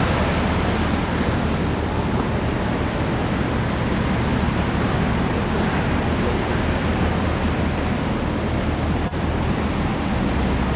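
Excursion boat under way: the steady drone of its engine beneath wind buffeting the microphone and rushing water.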